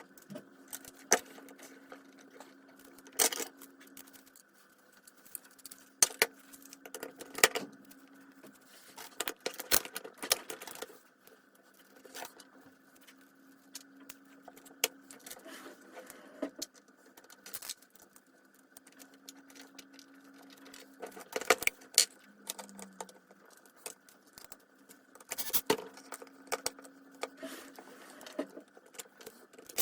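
Irregular clinks, clicks and knocks of small metal parts and tools being handled during work on a circular saw, some sharp and loud, others light, over a faint steady hum.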